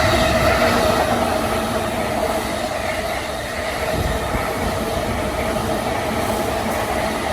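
Electric train running past at speed: a loud, steady rush of wheel and rail noise with a held hum running through it, loudest at the start.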